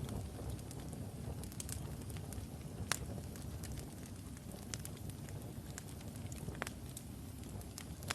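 Wood logs burning in a fireplace: a steady low rumble of flame with scattered sharp crackles and pops, the loudest pop about three seconds in.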